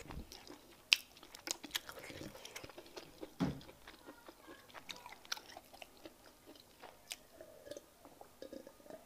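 Close-miked chewing of soft fufu and peanut soup, with wet smacks and scattered mouth clicks; a sharp click about a second in is the loudest sound.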